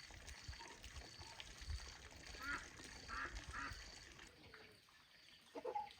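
Farm fowl calling faintly: a few short quacking calls in the middle, and a lower call near the end.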